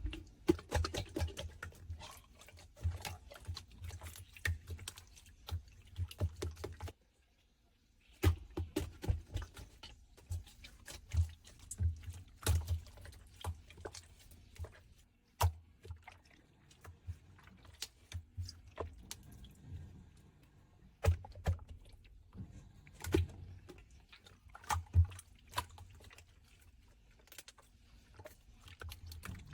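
Hands squeezing and poking clear "fake water" slime: dense, irregular sticky clicks and pops with soft low thuds, stopping for about a second a quarter of the way in.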